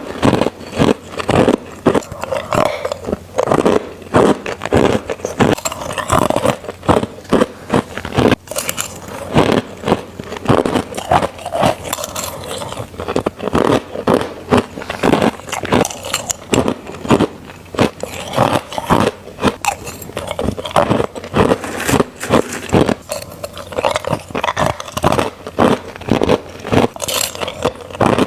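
Crushed ice being bitten and crunched between teeth, one crisp crunch after another, several a second.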